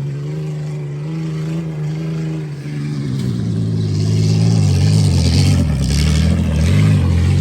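Car engine revving hard and holding a steady high note. About three seconds in it gets louder and drops lower, with a hiss added over it.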